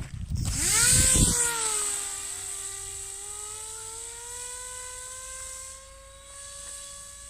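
Small RC paramotor's propeller motor whining, rising in pitch about half a second in and loudest near the first second, then holding a steady pitch while growing fainter. Wind buffets the microphone for the first second and a half.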